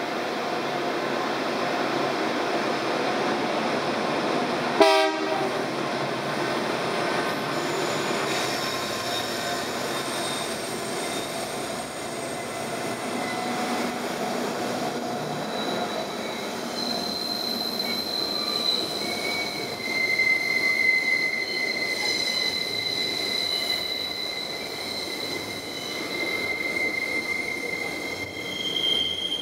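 Diesel-hauled freight train passing: the locomotives run by, then the wagons roll past with wheel flange squeal, steady high-pitched squeals from about halfway on. A short, sharp sound about five seconds in.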